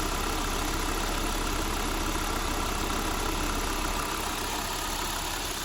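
2.2-litre turbocharged inline-five engine idling steadily, still cold in its warm-up after a cold start. The owner calls it silent and smooth, with no vibration.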